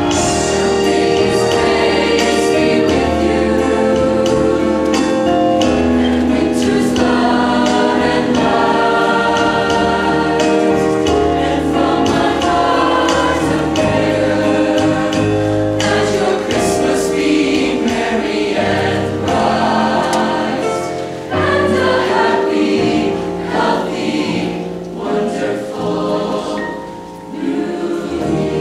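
Ensemble music with sustained chords that change slowly and sound choir-like. It thins out with a few dips in level in the last third.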